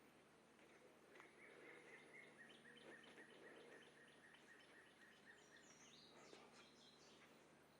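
Faint woodland animal calls, near silence: a run of short, evenly spaced chirps at one pitch, about five a second, lasting about three seconds, then a few fainter, higher chirps.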